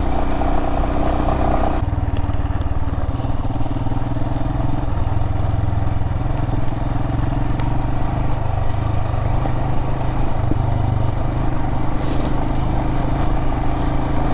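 Adventure motorcycle engine running steadily under way, its note changing abruptly about two seconds in.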